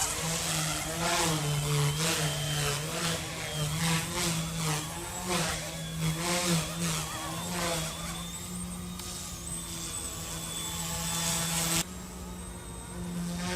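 Small RC helicopter's electric motor and rotors buzzing, the pitch shifting up and down as the throttle changes. Gusty rushes of air come and go through the first part, and the sound drops abruptly in level near the end.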